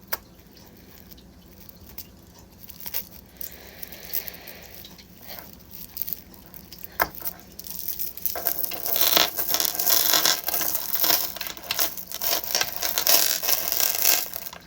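Plastic bag being worked open, with scattered crinkles and clicks. From about eight seconds in comes a dense rattle of small crystal chips clinking against each other as they tip out of the bag.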